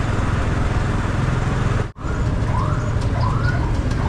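Steady low rumble of a motorcycle ride heard through an action camera, with a momentary dropout about two seconds in. After the dropout, a short rising-and-falling tone starts repeating about twice a second.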